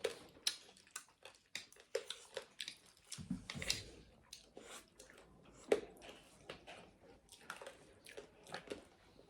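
A person chewing food close to the microphone: irregular crunches and wet clicks, with a dull low bump about three seconds in.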